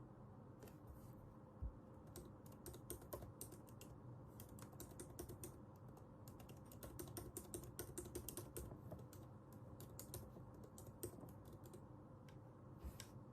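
Typing on a computer keyboard: faint, quick runs of keystrokes with short pauses between them, over a faint steady hum.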